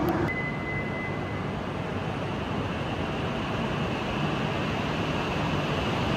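Shinkansen train moving through the station: a steady rumbling noise, with a thin high tone for about a second near the start.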